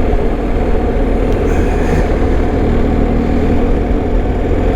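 BMW R1250 motorcycle's boxer-twin engine running at a steady cruising speed under a continuous rush of wind and road noise.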